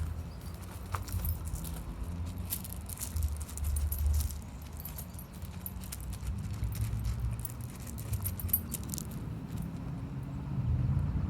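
Light metallic jingling, such as a puppy's collar tags, in scattered clinks over a low, uneven rumble.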